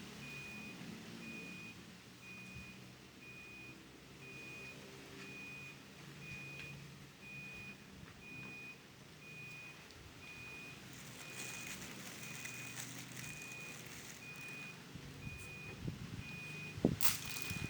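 A high electronic beep repeating steadily a little faster than once a second, over a low hum. A sharp knock comes near the end.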